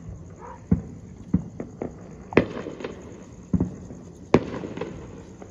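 Fireworks going off: about eight irregular bangs, the two loudest about halfway through and two seconds later, each followed by a short rumbling echo.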